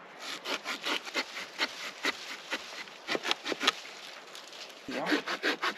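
Hand saw cutting a section off a piece of wood, with rhythmic back-and-forth strokes about four a second. The strokes pause briefly near the four-second mark, then start again faster.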